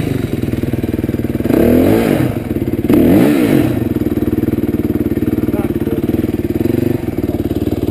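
Motorcycle engine idling steadily, revved up and back down briefly twice, a couple of seconds in and again about a second later.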